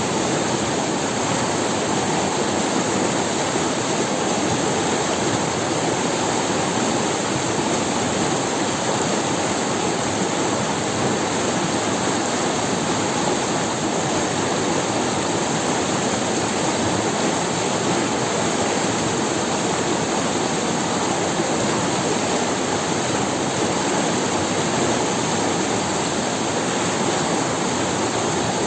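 River water rushing over stones, a steady, even rush with no breaks.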